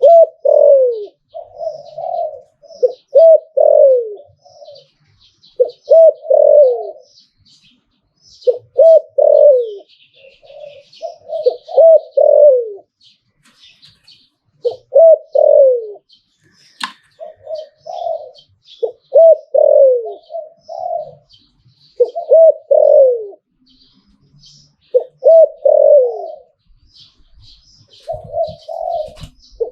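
Spotted dove cooing its song over and over: phrases of a few deep coos, the last notes falling in pitch, repeated every two to three seconds. Faint high chirping runs in the background, and there is one sharp click partway through.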